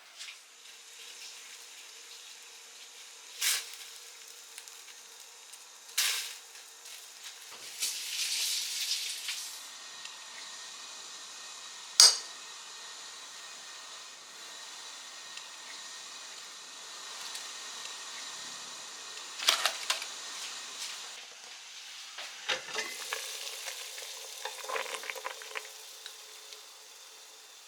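Kitchen sounds of food being prepared: several sharp knocks and clinks of utensils or dishes, the loudest about halfway through, with stretches of hiss between them.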